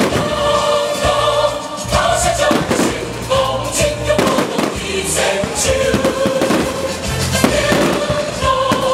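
Aerial firework shells bursting overhead in an irregular string of bangs and crackles, over continuous loud music with singing.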